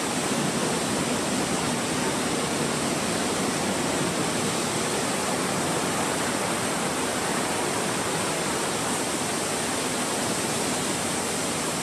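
Steady, even rushing noise of a car on the move: tyre and wind noise.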